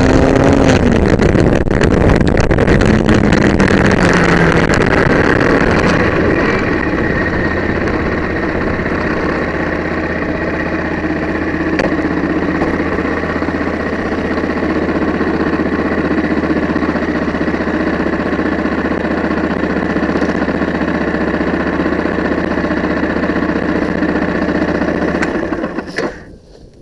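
Yamaha WR125X's 125 cc single-cylinder four-stroke engine: its pitch falls over the first few seconds as the bike slows, then it runs at a steady, even low note for about twenty seconds. The sound stops abruptly near the end.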